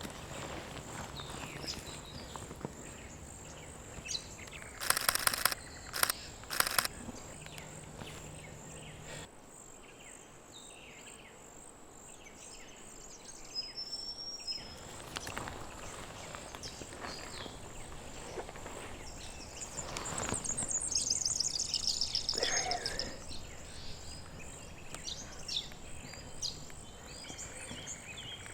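Small birds calling in bush over a steady high insect whine, with a twittering call about two-thirds of the way through. A few brief bursts of rapid clicking sound about five to seven seconds in.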